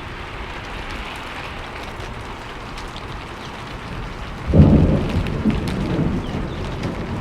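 Steady rain falling, with a sudden thunderclap about four and a half seconds in that goes on rumbling low and slowly fades.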